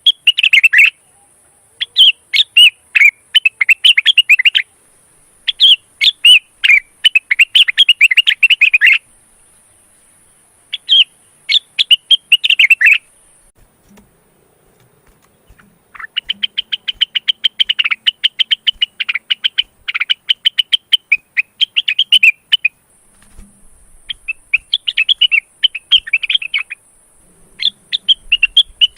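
Male cucak wilis (rengganis) singing in breeding condition: phrases of rapid, high twittering notes, each one to a few seconds long with short breaks between them, and a longer pause about halfway through.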